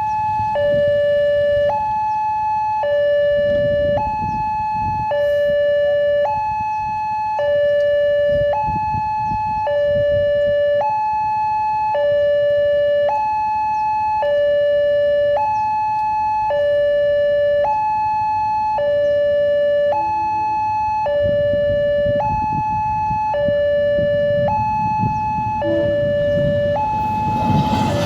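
Railway level-crossing warning alarm sounding an electronic two-tone signal, switching between a high and a low tone about once a second, the warning that a train is approaching and the barrier is down. Road traffic rumbles underneath, and near the end the noise of the approaching train starts to rise.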